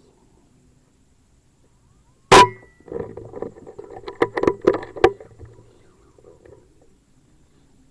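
A single sharp air rifle shot a little over two seconds in, with a short metallic ring, followed by a couple of seconds of rustling and several sharp clicks.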